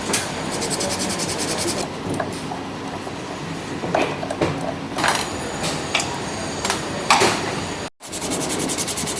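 Motorcycle brake pads being scrubbed clean with an abrasive, a fast, even rasping scrape. It is broken by a few sharp clicks and knocks of tools and parts through the middle, and it cuts out for a moment near the end.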